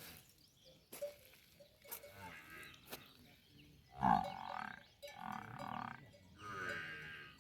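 Faint calls of farm animals: a short call, then three drawn-out calls one after another in the second half, the first the loudest.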